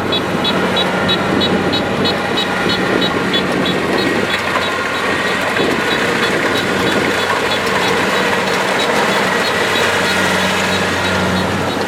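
Kubota DC-70 Plus combine harvester's diesel engine running steadily, with a rapid high-pitched beeping, about five beeps a second, that fades out in the first two seconds.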